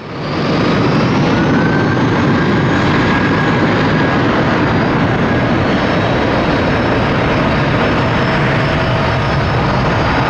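Jet airliner engines running at high power, a steady loud rush with faint whining tones over it, one rising slightly in pitch in the first couple of seconds.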